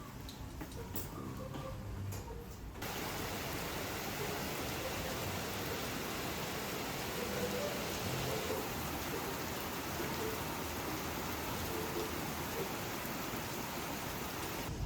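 Heavy rain pouring down in a steady hiss. It comes in suddenly about three seconds in.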